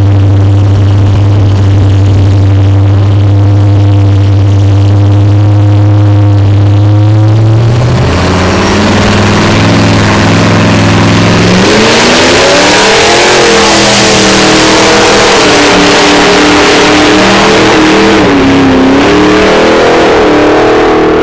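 Drag racing car's engine, very loud, held at a steady rev on the start line, then revving up. It launches down the strip, its pitch climbing and dropping back several times as it shifts through the gears.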